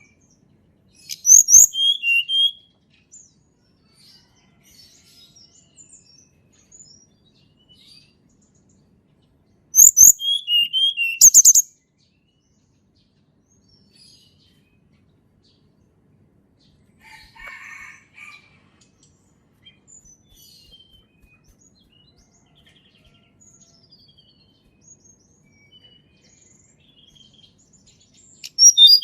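A tledekan gunung songbird singing short, loud phrases of quick, high, sliding notes, about a second in and again about ten seconds in, with a fainter phrase near 17 seconds and soft scattered chirps between.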